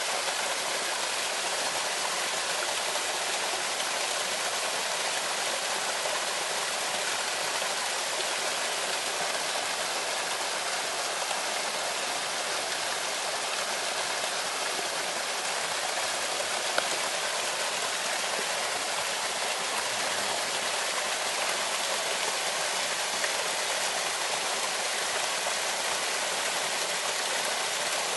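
Steady rushing of water, an even hiss that does not change, with one brief tick about seventeen seconds in.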